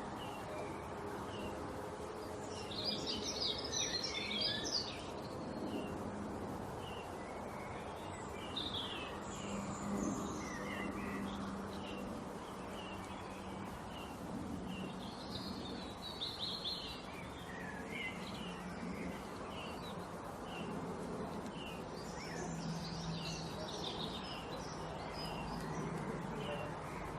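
Small songbirds chirping and twittering, many short high calls throughout, with several denser bursts of rapid twittering, over steady background noise and a faint low hum.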